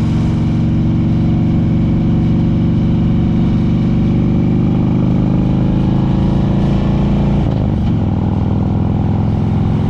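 Harley-Davidson touring motorcycle's V-twin engine pulling under load up a steep grade, its note climbing slowly. There is a short break in the engine note about seven and a half seconds in, after which it pulls on.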